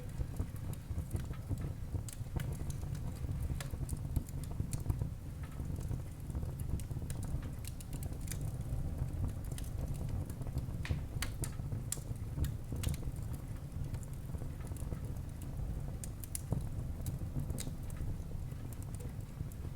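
Wood fire burning in a fireplace: a steady low rumble of the flames with frequent irregular crackles and sharp pops from the burning wood.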